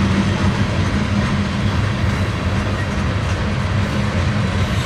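Loaded coal train cars rolling past on the rails: a steady rumble of wheels on track with a low hum.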